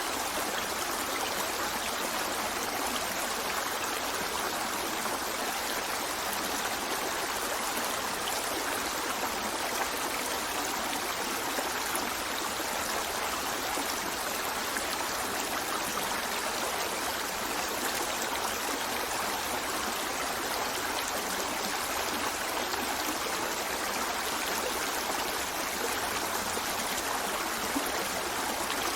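A forest stream running over rocks in a steady, even rush of water that does not change.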